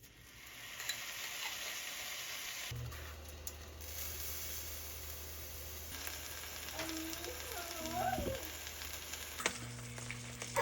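Food sizzling steadily as it fries in a hot pan. About three-quarters through, a brief pitched sound glides up and down.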